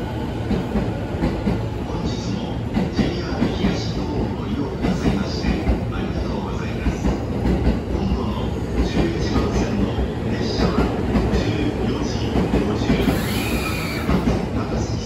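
Railway noise: a steady rumble with irregular clatter and short high-pitched squeals, like wheels on track.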